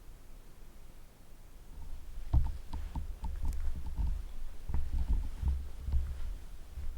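Low rumbling thumps with scattered light clicks start about two seconds in and come and go irregularly.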